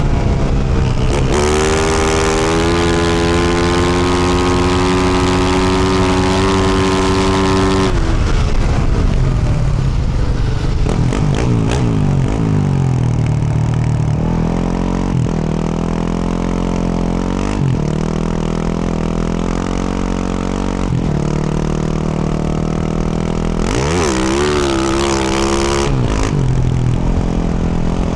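Yamaha YZ450F single-cylinder four-stroke dirt bike with a Yoshimura RS-12 exhaust being ridden. The engine holds high revs steadily for about eight seconds, then backs off and rises and falls with throttle and gear changes. It gives one quick rev up and back down near the end.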